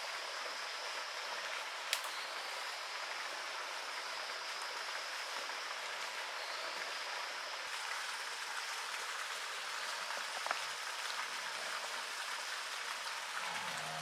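Steady hiss of water, with a couple of light ticks about two seconds in and again about ten seconds in.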